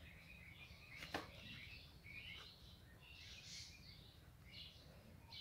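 Near silence with faint bird chirps in the background, a scatter of short high calls. There is one faint sharp tap about a second in.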